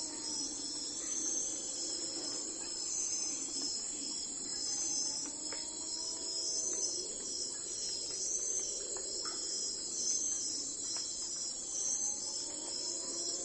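Crickets chirping in a steady chorus, a dense high-pitched pulsing trill that never lets up. Underneath, a faint rising tone returns every several seconds.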